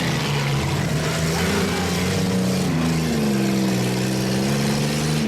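Demolition derby cars' engines running and revving, their pitch rising and falling as they are throttled up and back off.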